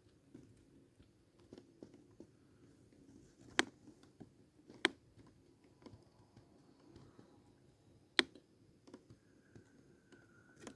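Quiet room with three sharp clicks, a second or more apart, among fainter scattered ticks.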